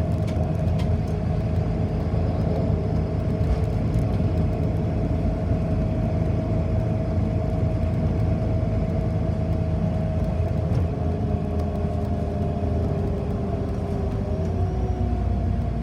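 City bus driving along, heard from inside the cabin: a steady low rumble of the drivetrain and road with a steady whine over it, whose pitch shifts a little near the end.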